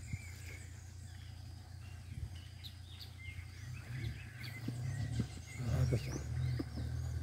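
Small birds chirping, many short, high, falling calls in quick succession, over a steady low rumble.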